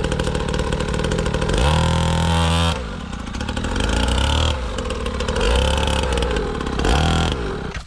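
Small dirt bike engine running, revved up and down several times, then fading near the end.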